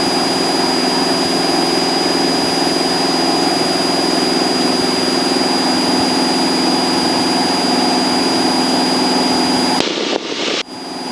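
Cessna 172 engine and propeller running steadily at climb power, a constant drone with a thin high whine over it. About ten seconds in, the sound cuts out and comes back in short chunks.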